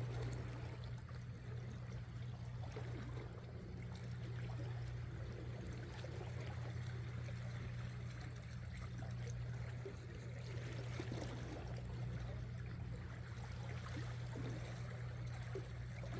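Sea water sloshing and trickling around shore rocks, over a steady low hum.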